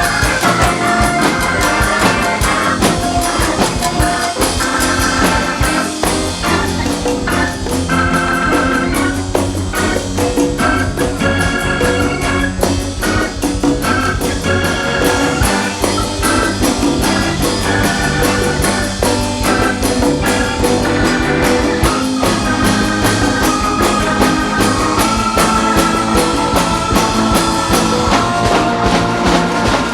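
Live band playing an instrumental passage, with a drum kit keeping a steady groove under short melodic lines from keyboard or guitar.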